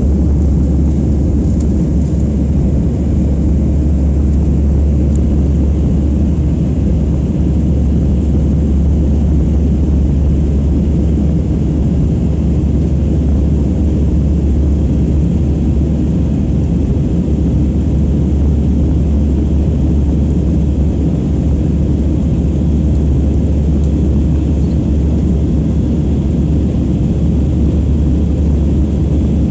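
Steady, loud, deep rumble of an Airbus A320's jet engines and rushing air, heard inside the passenger cabin.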